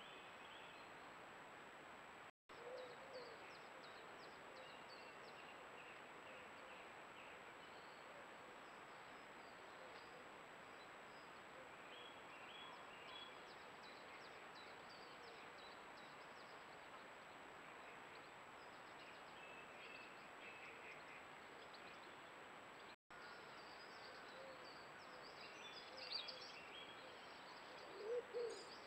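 Faint dawn birdsong over a trail camera's steady hiss and thin high whine, with a few low hooting calls about two seconds in and louder ones near the end. The sound drops out briefly twice.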